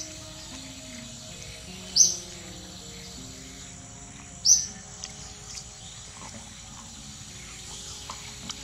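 A bird giving two short, high chirps about two and a half seconds apart, over soft background music.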